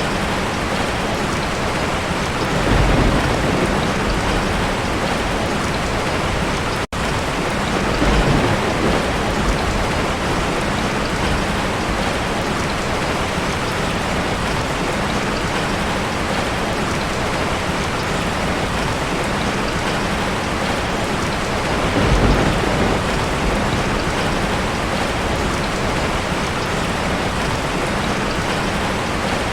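Steady, heavy rain, with low rumbles of thunder swelling up about three seconds in, around eight seconds and again near twenty-two seconds. The sound cuts out for an instant about seven seconds in.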